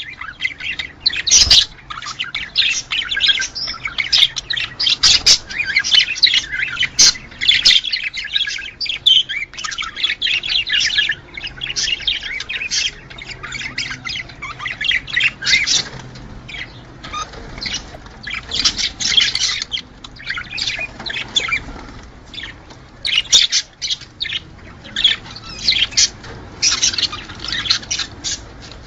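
A flock of budgerigars chattering: rapid, overlapping high chirps, warbles and squawks in busy bursts, with short lulls in between.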